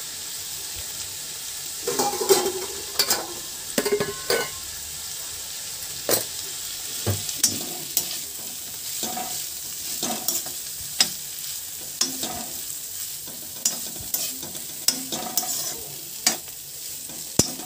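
Cluster beans frying in hot oil in a metal kadai, a steady sizzle, with a metal spatula stirring them and scraping and clicking against the pan at irregular intervals. The beans have just gone into oil tempered with cumin and asafoetida.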